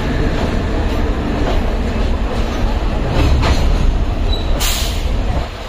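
Passenger coaches of an Indian Railways express train rolling past at low speed: a steady rumble of wheels on the rails, with a few clicks from the rail joints about three seconds in and a brief hiss near the end.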